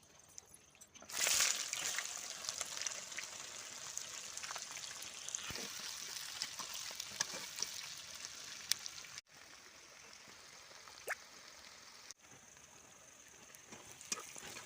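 Food sizzling in hot oil. It starts suddenly about a second in, loudest at first, then goes on as a steady hiss with scattered pops and crackles. It becomes quieter after a break near the end.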